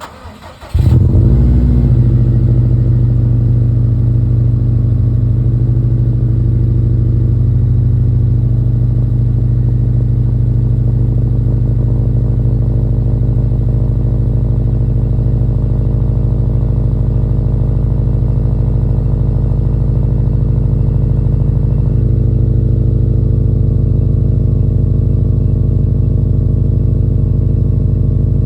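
2020 Subaru STI's turbocharged 2.5-litre flat-four cranking briefly and catching on a cold start, heard through a CP-E Austenite muffled axle-back exhaust. It then settles into a steady idle.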